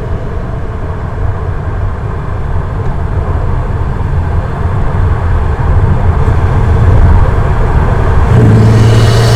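Turbocharged Toyota Supra engine with an Armaspeed intake, running under way as a steady low drone. It grows louder and pulls harder near the end.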